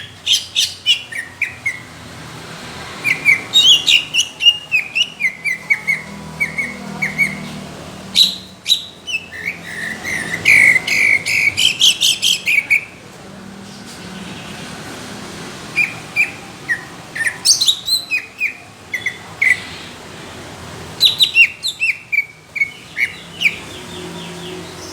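A cucak ijo (green leafbird) singing in loud bouts of rapid, sharp whistled notes with short pauses between them, the longest bout near the middle. These are the rough, thick rapid-fire phrases ('tembakan') that songbird-contest judges prize in this bird.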